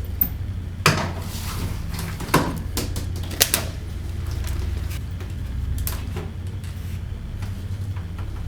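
A steady low hum with a few sharp clicks and knocks, four of them standing out in the first four seconds.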